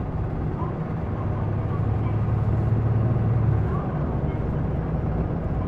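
Interior sound of an Isuzu Erga PDG-LV234L2 city bus's diesel engine pulling hard under acceleration. The low engine note builds for a few seconds, then eases off about four seconds in.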